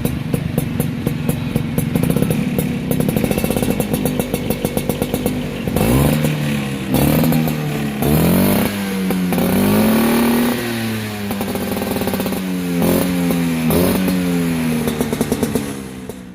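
Vespa scooter engine running through a newly fitted aftermarket exhaust. It idles with a rapid, even beat, then from about six seconds in it is revved up and down again and again.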